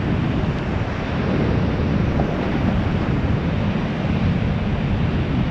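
Steady roar of whitewater pouring over a waterfall.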